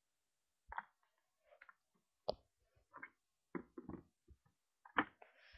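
A few separate knocks and clicks, with a short scuffling noise near the end; no engine running.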